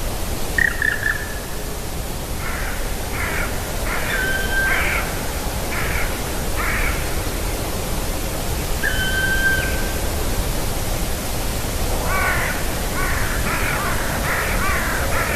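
Crows cawing in a rapid run of calls near the end. Before that come shorter calls and two long, level calls from other birds. A steady low background noise runs under all of it.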